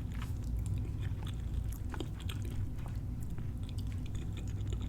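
A person chewing a mouthful of fried catfish sandwich close to the microphone, with small wet mouth clicks, over a steady low hum.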